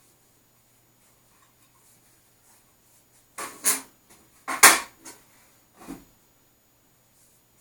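Handling noises: a few short scrapes and knocks, bunched together about halfway through, the loudest in the middle of them.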